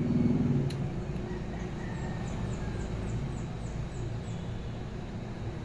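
Steady low background hum with a quick run of about a dozen short, high, falling bird chirps, about four a second, from about a second and a half in to about four seconds in.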